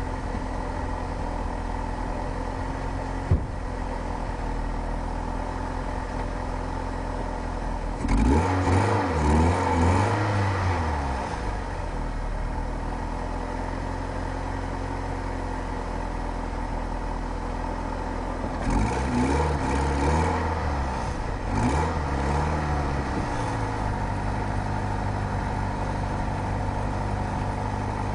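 1988 Ford Escort GT's 1.9-litre four-cylinder engine and road noise, picked up from outside at the front of the car. The engine runs steadily, then is revved and pulls with its pitch rising and falling about 8 seconds in and again from about 19 seconds in, with a single sharp click near 3 seconds in. The owner says the car's engine is healthy but its clutch is slipping.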